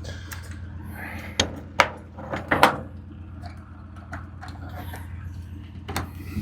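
A handful of sharp clanks and knocks, the loudest two coming about two and two and a half seconds in, over a steady low hum.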